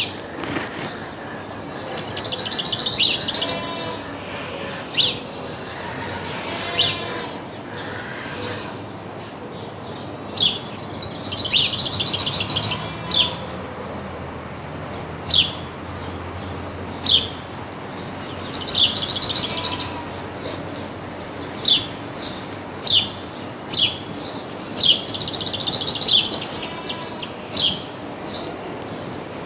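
A bird calling: short sharp high chirps every second or two, broken by four rapid chattering bursts.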